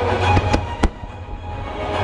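Fireworks going off over music: two sharp bangs about a third of a second apart near the middle, and a weaker one just before them.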